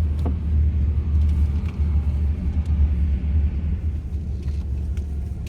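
Vehicle on the move: a loud, steady low rumble of road and engine noise.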